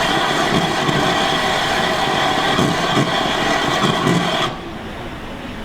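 Steam train noise: a loud hiss with several steady tones over it that cuts off abruptly about four and a half seconds in, leaving a quieter rumble.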